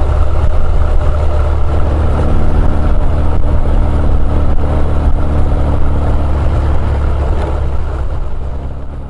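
Honda CB1100EX's air-cooled inline-four running steadily through an Earl's Gear Wyvern Classic aftermarket muffler, heavy and low-pitched, fading out near the end.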